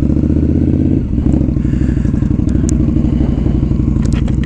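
Indian Scout motorcycle's V-twin engine running steadily at low revs, with a brief change in its note about a second in.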